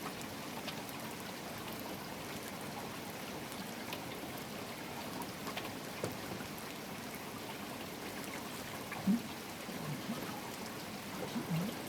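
Steady rainfall with scattered drips and drops, a constant hiss of rain and running water. A few brief low-pitched sounds come through it in the last few seconds.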